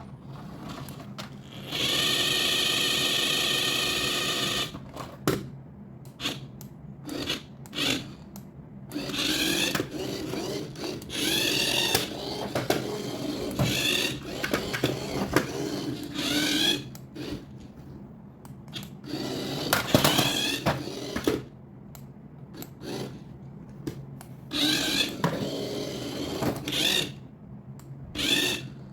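Small electric toy motor whirring: one steady run of about three seconds near the start, then many short bursts that rise in pitch, with clicks and knocks between them.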